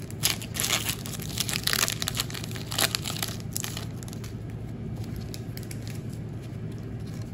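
Thin plastic crinkling and rustling as trading cards are handled and slid into soft plastic sleeves, busiest in the first half, over a low steady hum.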